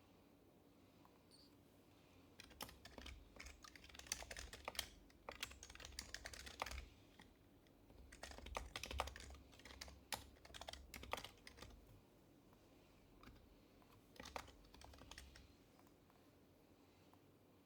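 Typing on an HHKB Professional HYBRID Type-S keyboard, whose silenced Topre capacitive keys make quiet clacks. The keystrokes come in three quick runs, starting a couple of seconds in, with short pauses between them.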